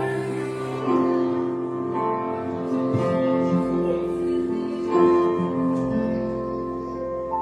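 Church orchestra playing an instrumental passage of a worship song: held chords that change every second or so over a steady bass.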